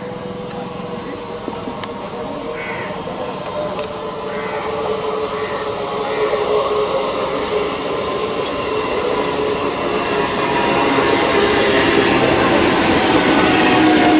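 Eastern Railway electric multiple-unit local train approaching and running past, its electric traction equipment sounding steady tones over the rumble of wheels on rail, growing steadily louder as it draws near.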